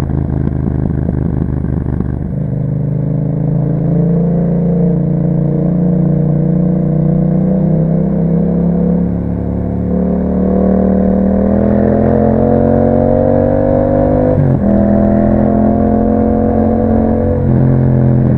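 Yamaha MT-07's 689 cc parallel-twin engine running through an Akrapovic exhaust, pulling under load with the pitch climbing steadily. Its note drops suddenly twice near the end, at gear changes, and each time rises again.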